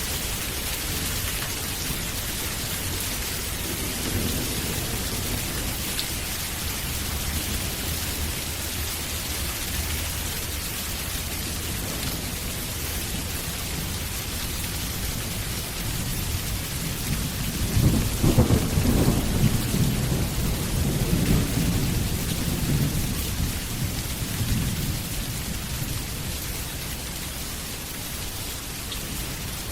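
Steady heavy rain with a rolling rumble of thunder that swells about two-thirds of the way in and fades over several seconds.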